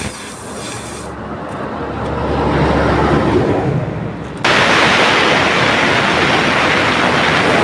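A low rumble builds over the first few seconds. Then, about four and a half seconds in, a loud, steady hiss of compressed air starts suddenly, as at a tyre valve or air hose, and cuts off abruptly near the end.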